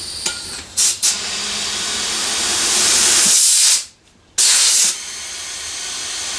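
Compressed air hissing through an air chuck into a motorcycle tire's valve stem, core removed, to seat the bead of a tube-type tire. The hiss grows louder, is broken off briefly just under a second in and again for about half a second around four seconds in, then runs on more quietly.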